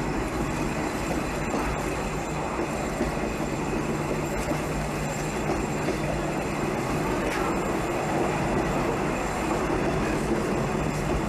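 Passenger train running: a steady rumble of wheels and running gear with a low, even hum and a few faint clicks.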